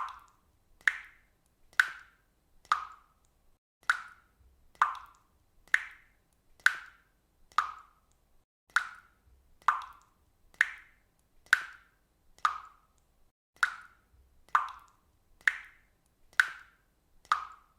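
Water dripping at a steady rate of about one drop a second, each drop a short, clear, pitched drip that dies away quickly.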